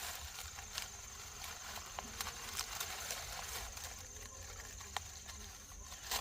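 Dry corn stalks rustling and crackling as they are handled and bundled, with irregular sharp snaps and clicks.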